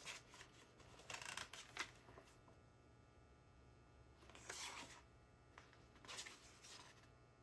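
Faint handling noises of small parts: a few light clicks in the first two seconds, then two short rustles about four and a half and six and a half seconds in.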